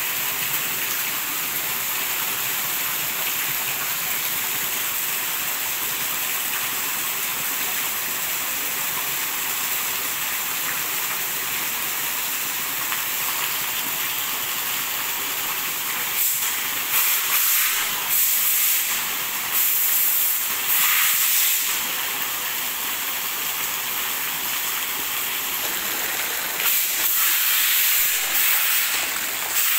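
Heavy rain on a corrugated metal shed roof, a steady hiss, with a stream of roof runoff pouring and splashing into a bucket. The hiss swells in several louder surges from a little past halfway.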